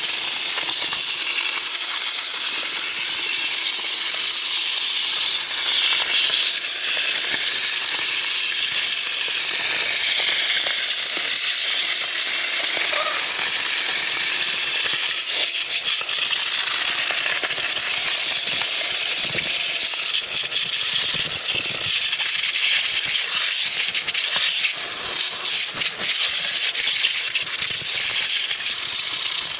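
Steady, loud hiss of a high-pressure cleaning jet spraying, with faint scattered rattles.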